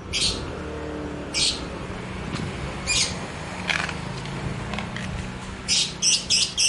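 Small caged songbirds giving short, high chirps at irregular intervals, with a quick run of four chirps near the end, over a steady low hum.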